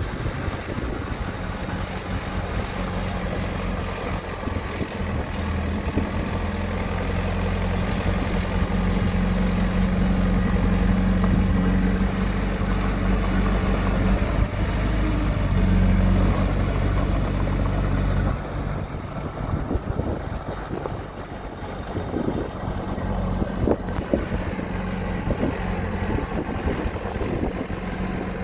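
Diesel engine of heavy earthmoving machinery running steadily. It grows louder in the middle, eases off about two-thirds of the way through, and then carries scattered short knocks and clanks.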